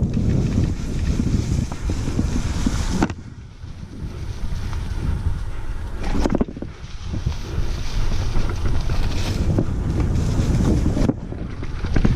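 Wind buffeting the microphone of a bike-mounted action camera during a mountain bike ride, with a low rumble and scattered knocks from the bike over rough trail. The noise drops off abruptly about three, six and eleven seconds in, then builds again.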